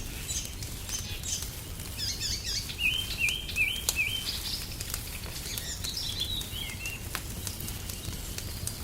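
Wood fire crackling, with scattered sharp pops over a low steady rumble. A songbird sings through the middle: quick chirping phrases, including a run of about five repeated hooked notes.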